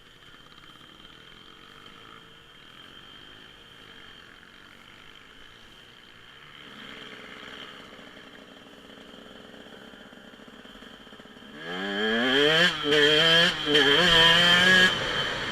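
Dirt bike engine, faint and distant at first, then suddenly loud from about three-quarters of the way in, revving up hard in several rising pulls with short breaks between them before easing off at the end.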